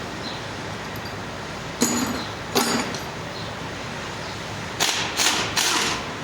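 Metal tools and parts clinking and knocking during a truck gearbox teardown: two short ringing clinks, then a quick run of three louder knocks near the end, over a steady workshop background hum.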